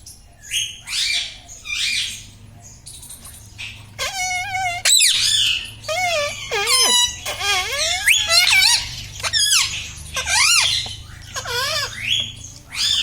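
Indian ringneck parrot vocalizing: a string of short squawks and swooping whistled calls. From about four seconds in, some calls waver quickly in pitch like a warble.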